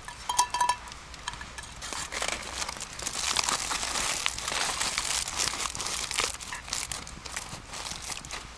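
Crinkling, rustling handling noise, dense with small crackles, with a couple of brief ringing clinks about half a second in.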